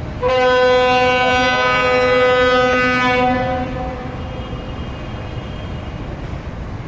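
Diesel locomotive air horn sounding one long blast of about three seconds, then dying away, over the low rumble of the engine; sounded as the train sets off on departure.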